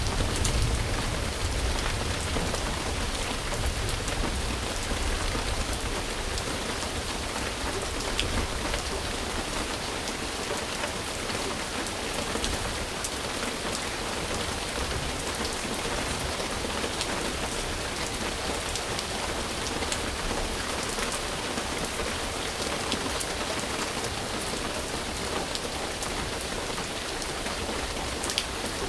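Steady heavy rain falling on a surface, an even hiss with scattered sharp drop ticks. A low rumble underneath fades away over the first ten seconds or so.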